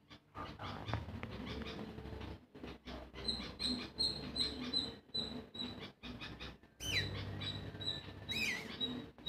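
Small birds chirping: a short high chirp repeated about three times a second, with a couple of swooping calls near the end.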